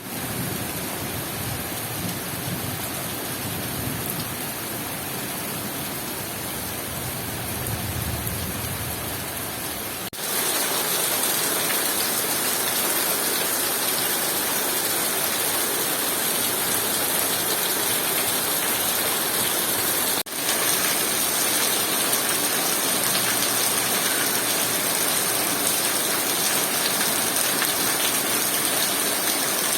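Heavy rain pouring steadily as a dense, even hiss. About ten seconds in the sound changes abruptly, from a duller sound with a low rumble underneath to a louder, brighter hiss. There is another brief break around twenty seconds.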